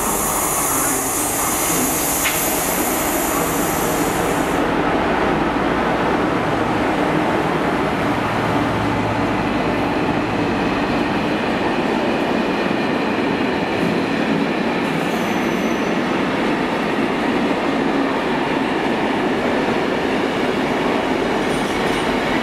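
Class 60 diesel locomotive running past, hauling a long train of tank wagons, followed by the steady rumble and clatter of the wagons rolling by. A high-pitched wheel squeal over the first four or five seconds, then a continuous rolling noise.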